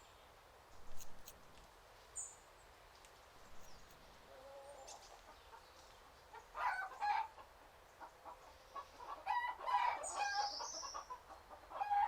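Chickens clucking in short bursts from about halfway through, with a high chirping call among them.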